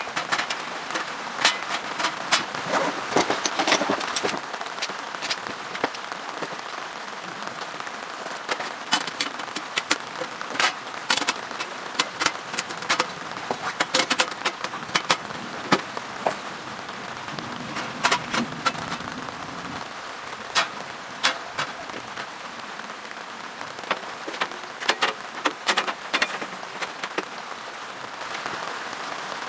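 Steady rain with many heavy drops tapping sharply on a fabric shelter overhead, the taps coming irregularly over a constant hiss.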